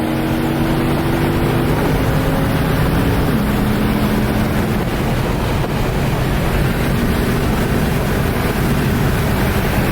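A car driving at speed: a dense rush of wind and road noise over a steady engine note, which changes pitch in steps a couple of times early on.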